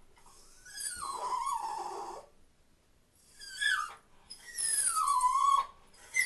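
Dog whining: three drawn-out, high-pitched cries that each fall in pitch.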